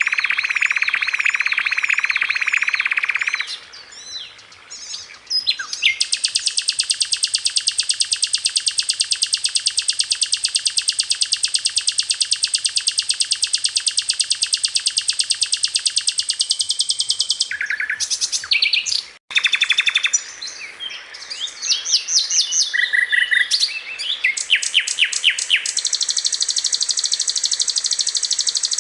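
Recorded songbird song used for training cage birds: a string of fast, high trills and chirps in separate phrases, including one long rapid even trill, and a brief sudden cut about two-thirds of the way through.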